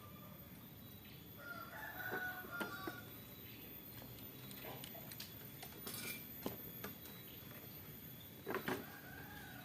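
Faint bird calls: short pitched phrases about two seconds in and again near the end, with a few scattered clicks.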